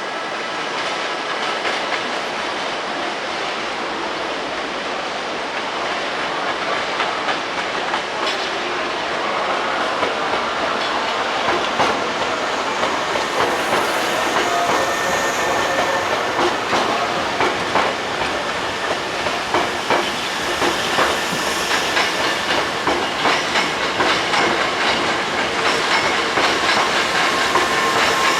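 A Hankyu Kyoto Line resistance-controlled electric train running on the rails, its wheels clacking over rail joints. The clacks come more often and louder in the second half.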